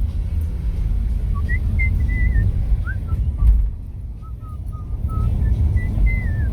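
Steady low rumble of a moving car, with a few short, wavering whistled notes of a tune over it.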